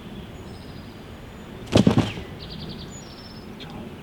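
Wind rumbling, with small birds chirping faintly in the background. About two seconds in there is a short, loud double knock.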